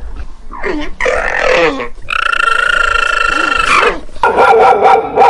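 A dog vocalising: a few short calls, then one long, steady call lasting nearly two seconds, followed by several more short calls near the end.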